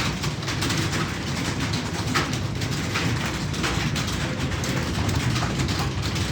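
Computer keyboard keys being typed on in a quick, uneven stream of clicks during a typing speed test, over a steady low hum.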